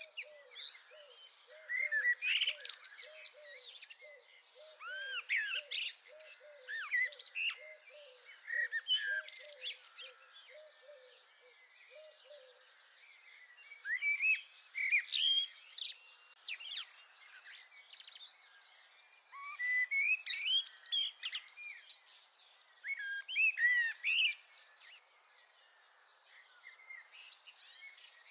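Garden songbirds singing and chirping, several birds overlapping in bursts of song. Under them, during roughly the first twelve seconds, runs a steady series of low repeated notes, about two a second.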